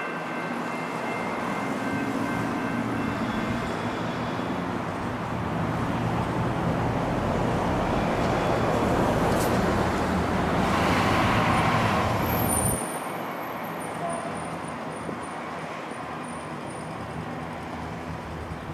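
A train passing, its rumble building to its loudest about two-thirds of the way in, then dropping off sharply.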